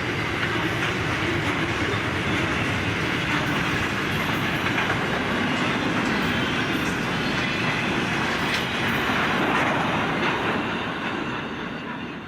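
Long freight train's wagons rolling past at a steady level, steel wheels clattering over the rails.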